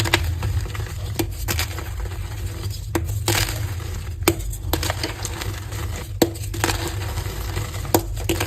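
Pieces of heart-shaped gym chalk being crushed and crumbled, giving irregular sharp cracks and crunchy crackles, a few louder snaps among them, over a steady low hum.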